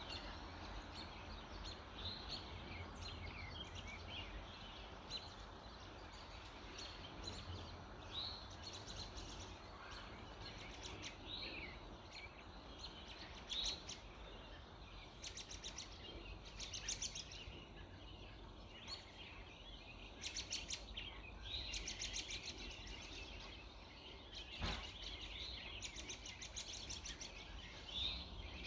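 Early-morning chorus of several birds calling at once: short chirps and rapid trills overlapping throughout, over a steady low rumble. One sharp knock comes about three-quarters of the way through.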